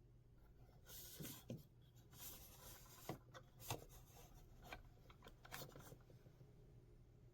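Faint rustling and scraping with a few light clicks, from about one to six seconds in, over a low steady hum.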